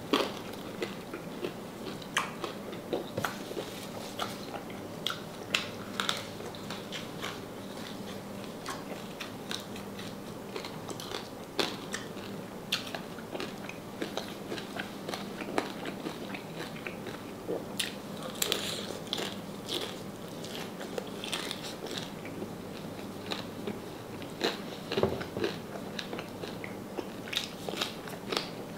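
Crunchy biting and chewing of crispy deep-fried salted pork knuckle skin: irregular crackling crunches, several every few seconds, over a steady low hum.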